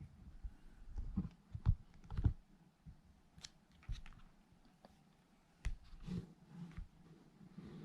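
Irregular light clicks and taps of small hard objects being handled, a few sharper knocks among them, over a faint steady low hum.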